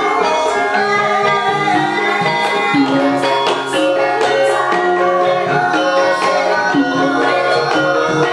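Javanese gamelan ensemble playing, with metallophones ringing held notes over a quick run of kendang drum strokes.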